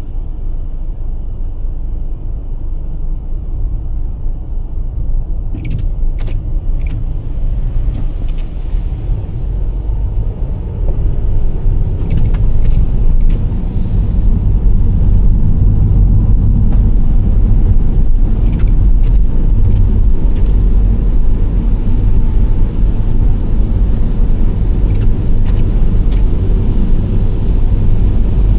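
Nissan Serena C25 minivan driving at night: steady engine and tyre road noise, growing louder about a third of the way in, with a few small groups of short high ticks.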